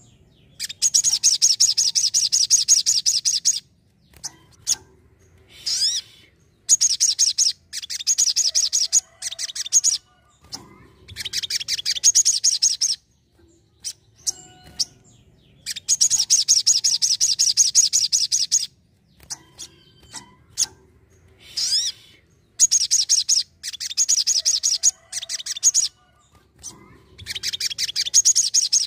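Sogon (ruby-cheeked sunbird) singing continuously in fast, high-pitched chattering trills. The phrases come in bouts of one to three seconds with short pauses and a few single notes between them.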